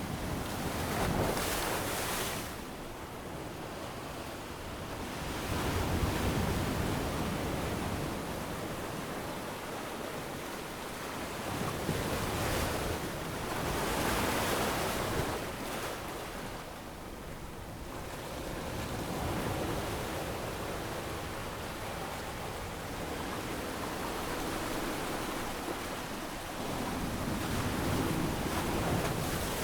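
Ocean waves breaking and washing up on a sandy beach, swelling and easing every few seconds, with some wind.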